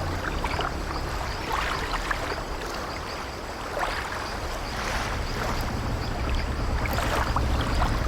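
Sea waves washing around an old wooden sailing ship, a low rumble under a hiss, with the ship's wooden timbers creaking every second or two.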